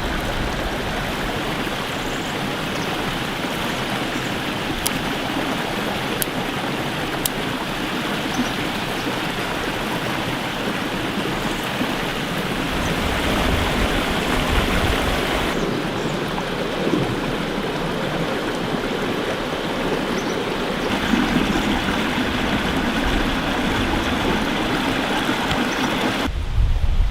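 A stream rushing steadily. The sound shifts abruptly about halfway through and drops away near the end, as at cuts between shots.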